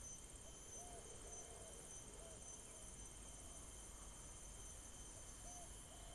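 A distant bird giving short hooting notes, mostly in pairs with a pause in the middle, over a faint steady high-pitched whine.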